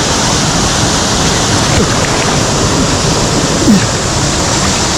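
Mountain stream rushing loudly and steadily through a gorge, a continuous hiss of tumbling water, with a brief louder surge a little past the middle.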